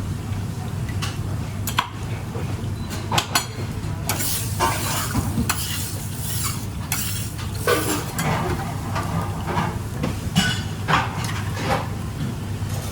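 A metal utensil stirring and scraping in a pan, with repeated clinks and scrapes, over a steady low hum.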